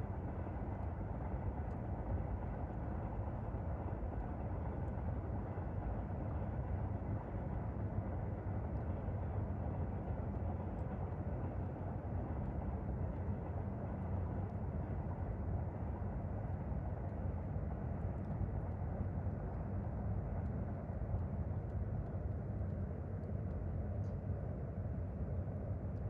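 Steady low rumble of a distant vehicle, even in level throughout, with a few faint ticks over it.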